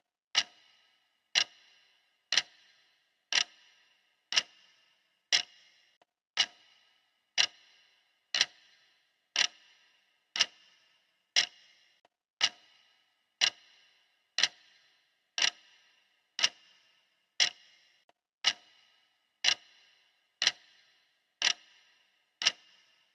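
Clock-style ticking: one sharp tick each second, every tick alike and dying away quickly.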